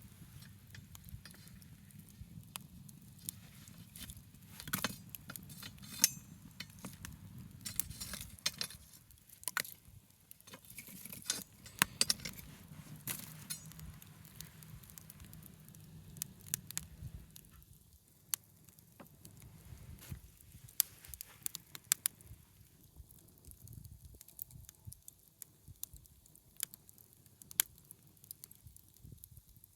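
Wood fire burning, with irregular sharp crackles and pops over a low rush of flame that dies away about halfway through.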